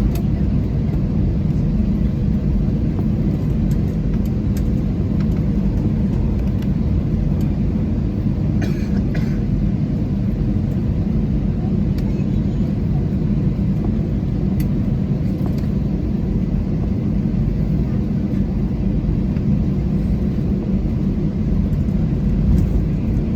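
Steady low rumble inside the cabin of an Airbus A320 taxiing, its IAE V2500 engines at idle. The level stays even, with a few faint ticks.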